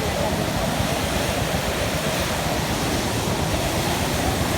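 Floodwater of a swollen river rushing past in a steady, loud wash of noise.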